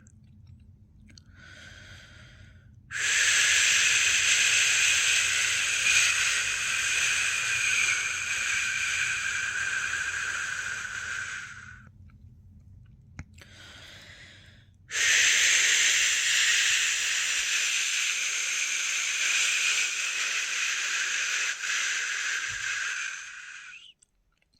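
A person shushing a newborn to sleep with a long, steady 'shhh'. It comes in two long shushes of about eight seconds each, and each is preceded by a short, softer one.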